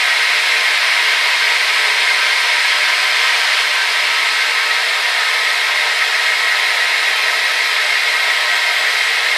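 Hair dryer running steadily, a constant rushing hiss of blown air with a faint motor whine, strongest in the upper middle and without low rumble.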